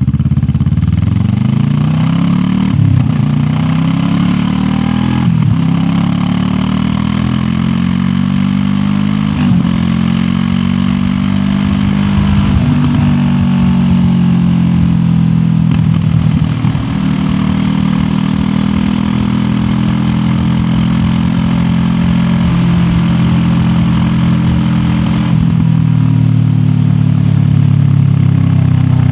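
Parallel-twin engine of a QJ Motor SRT 700X motorcycle under way, its pitch climbing and dropping several times with brief breaks, over steady wind and road noise.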